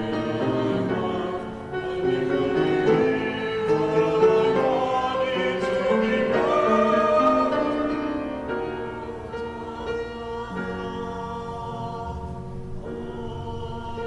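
Choir singing a hymn with instrumental accompaniment, the voices holding sustained notes.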